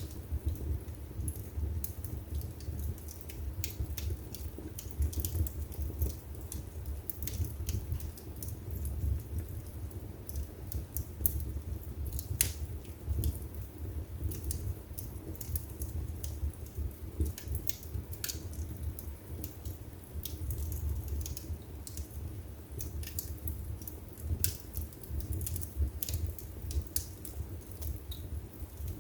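Wood fire burning in a fireplace, with irregular crackles and pops over a steady low rumble of the flames.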